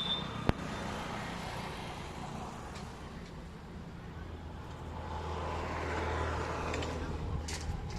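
A motor vehicle's engine running nearby, its low rumble swelling about five seconds in as it draws closer. There is a single sharp click about half a second in.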